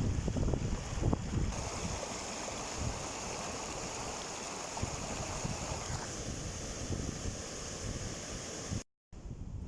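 Gusty wind buffeting the microphone, rumbling unevenly over a steady rushing outdoor noise, with a brief dropout near the end.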